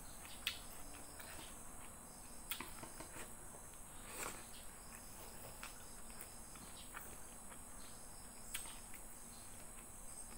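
Soft eating sounds of chewing by mouth, with scattered small mouth clicks, over a steady high-pitched chirring of insects such as crickets.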